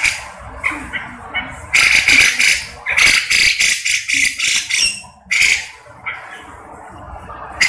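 Grey-cheeked bulbul (cucak jenggot) calling loudly: short high calls, with two longer runs of rapid repeated notes about two and three seconds in.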